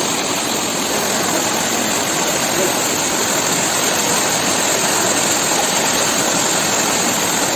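Small waterfall: water pouring steadily over rocks into a stream, a loud, even rush.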